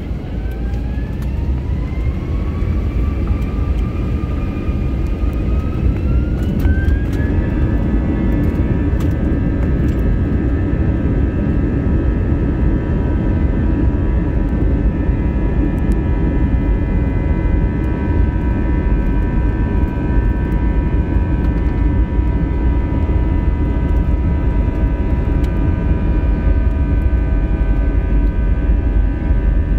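Airbus A321's IAE V2533-A5 turbofan engines spooling up to takeoff thrust: a whine rises in pitch for about seven seconds, then levels off into a steady tone over a heavy, constant rumble.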